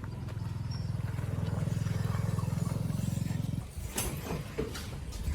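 A small engine running steadily, growing louder, then cutting off suddenly about three and a half seconds in. A metallic knock and a few rattles follow as the motorcycle is handled.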